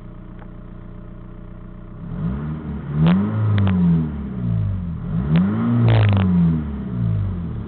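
Volkswagen TDI turbodiesel engine idling steadily, then revved up and let fall back twice, with a few sharp clicks near the top of the revs.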